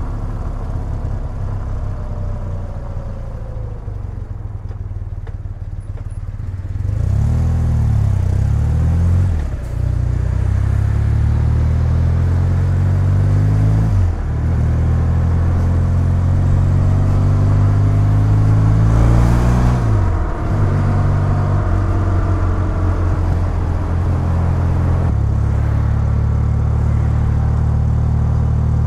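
BMW R100GS's air-cooled boxer twin engine under way: quieter for the first several seconds, then accelerating from about seven seconds in, its pitch climbing and dropping back at each upshift, three times, before running steadily near the end.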